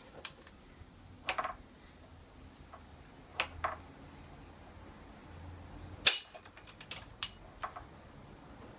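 A series of short, sharp metallic clicks and clinks from hand tools at work on the motorcycle, about eight in all, the loudest about six seconds in.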